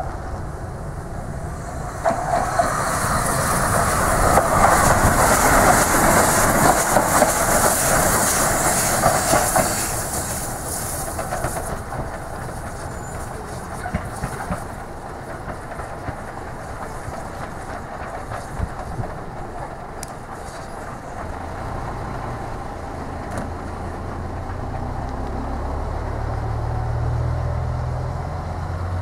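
Train moving along the track with rail clatter, loudest with a strong hiss from about two to ten seconds in, then quieter; a low drone builds near the end.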